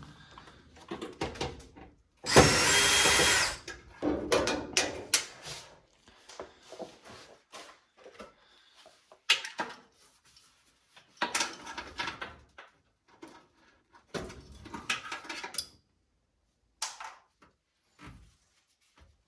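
A power drill runs once for about a second, with scattered knocks and rattles of parts being handled around it.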